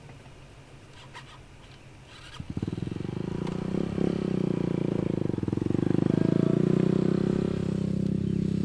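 A motorcycle engine starts up about two and a half seconds in and keeps running with a fast, even beat, a little louder after a few seconds. A few faint clicks come before it.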